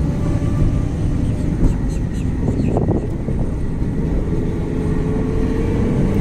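Honda car driving, with steady engine and road noise; its engine is running with no engine oil in it.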